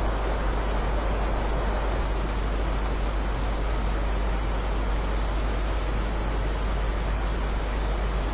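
Heavy rain falling steadily: an even, unbroken hiss with a deep low rumble underneath.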